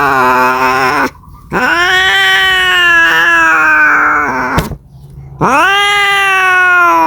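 A cat caterwauling: three long, drawn-out yowls with short breaks between them, each bending in pitch. The cry is the yowl of a cat calling for a mate.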